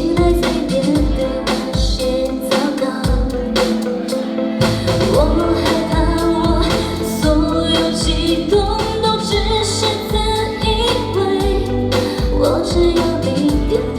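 A pop song: a woman singing a melodic line over instrumental accompaniment with a steady drum beat.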